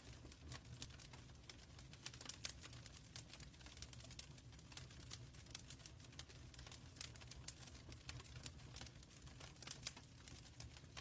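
Wood fire burning in a fireplace: quiet, irregular crackles and pops over a low steady rumble.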